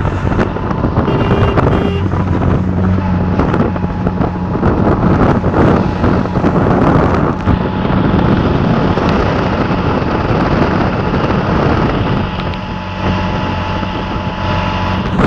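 A loud, steady rushing noise with a low engine hum running beneath it.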